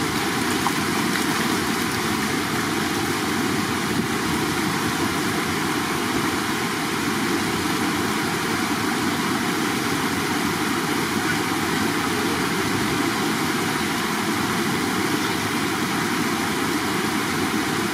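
Running water making a steady, unbroken rush.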